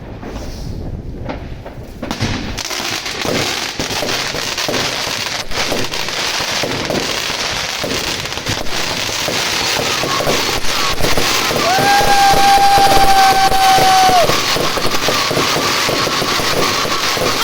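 Consumer firework cakes going off. A few scattered thumps give way, about two and a half seconds in, to a dense, continuous run of bangs and crackling. Partway through, a steady whistling tone is held for about three seconds over the barrage.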